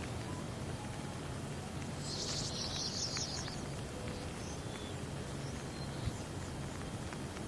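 Steady rain ambience with scattered faint drop ticks. About two seconds in, a high, rapidly pulsed animal call chirps for about a second and a half.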